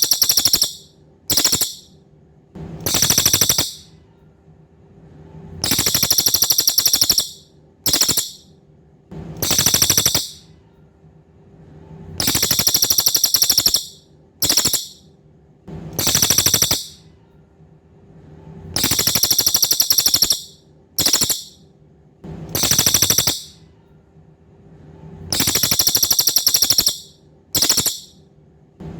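Cililin songbird singing high, rapid buzzy trills in a repeating phrase: a long trill of about a second and a half, a short burst, then another long trill, the pattern coming round about every six to seven seconds. A faint steady hum runs underneath.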